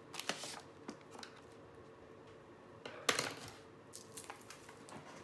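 Paper and sticker sheets being handled and shuffled on a desk: scattered light taps and rustles, with one louder rustle about three seconds in.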